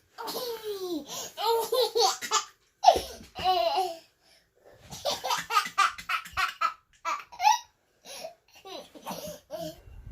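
A 16-month-old toddler laughing gleefully in repeated bouts of giggles, with a short break about four seconds in before the laughter starts again.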